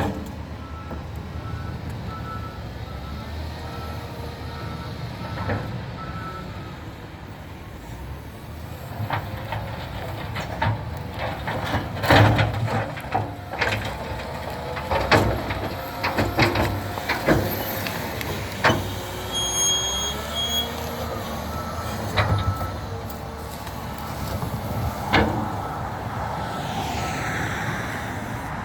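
Tractor shovel (front loader) working: its engine runs steadily while a reversing alarm beeps for the first several seconds and again near the end. In between, a run of loud knocks, clanks and short squeaks as it handles logs.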